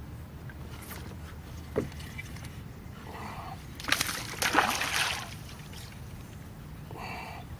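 Water splashing and sloshing beside a kayak, loudest for about a second from about four seconds in, with a sharp click just before two seconds in.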